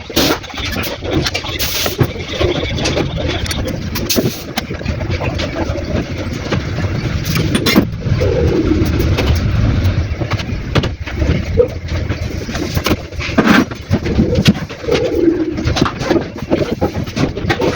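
Doves cooing, with calls about halfway through, near twelve seconds and again a few seconds later. Under them runs a steady low engine rumble, with scattered clicks and knocks.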